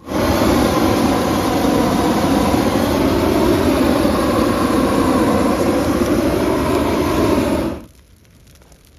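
Small Husqvarna two-stroke chainsaw running at high revs, its pitch wavering up and down as it works through branches. It cuts off abruptly about eight seconds in.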